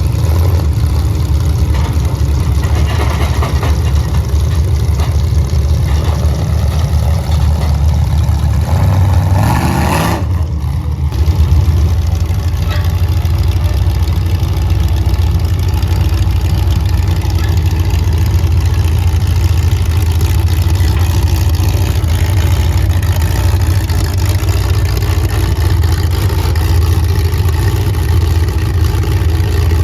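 Motor vehicle engine running steadily, with one rev rising in pitch about ten seconds in.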